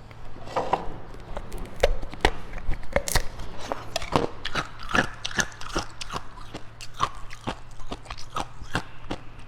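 A person biting and chewing ice: an irregular run of sharp crunches and cracks, two or three a second.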